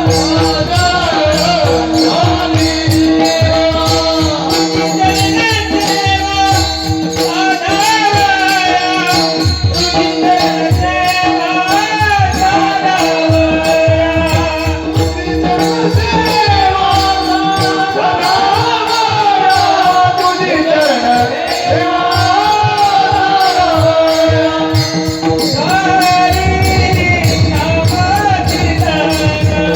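Male voice singing a Marathi devotional abhang in long, ornamented phrases over a steady drone. Mridang drum strokes and a fast, even jingling of small hand cymbals keep time under the voice.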